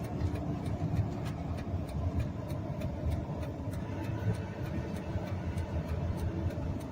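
Tire and road noise heard inside the cab of a pickup on 35x12.50R20 Venom Power Terra Hunter X/T all-terrain tires: a steady low rumble at about 50 mph, the tread noise being demonstrated.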